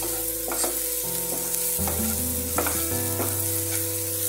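Wooden spatula stirring and scraping an onion-tomato masala around a nonstick frying pan, the masala sizzling in oil as it is sautéed with salt. The scrapes come at irregular intervals.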